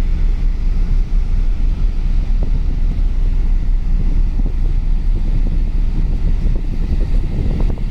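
Wind buffeting the microphone on the open deck of a ferry under way, a loud, gusting low rumble with no clear tones.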